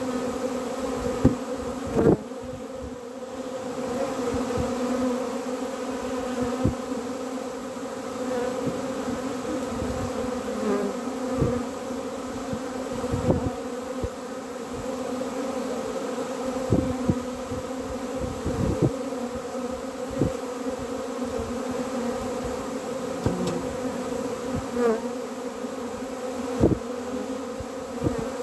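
Honeybees buzzing in a steady, dense hum, the sound of a crowded hive colony. Scattered short knocks punctuate the hum, the strongest about two seconds in.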